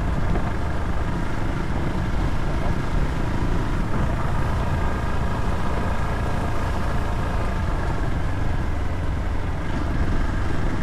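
Motorcycle on the move: steady engine noise mixed with wind rushing over the microphone.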